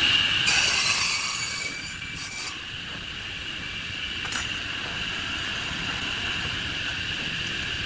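Wood lathe running with a steady high-pitched whine as a tool cuts the spinning wood, with bursts of hissing cutting noise in the first couple of seconds.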